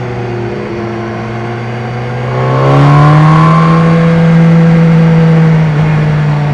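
BMW S1000R's inline-four engine under way at steady revs, then rising in pitch and getting louder about two seconds in as the throttle opens. It holds the higher revs for a few seconds and eases back down near the end.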